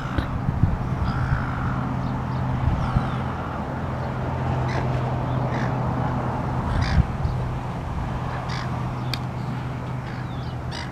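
Birds calling repeatedly in short, crow-like calls over a steady low hum.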